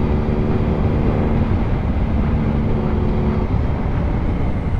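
Motorcycle engine running steadily under a heavy rumble of wind on the helmet microphone; a steady engine tone drops away about three and a half seconds in.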